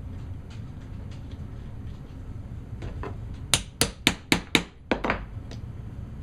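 A hammer pounding a hole through a metal beer bottle cap to enlarge it. There are a few faint taps, then a quick run of five sharp, ringing metallic strikes about three and a half seconds in, followed by two lighter ones.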